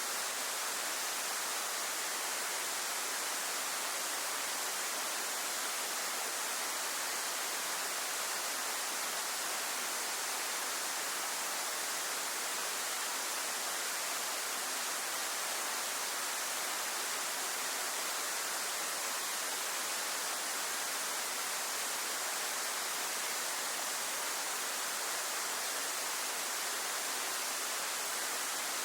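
Waterfall: a steady, unbroken rush of falling water, with a bright hiss and little low rumble.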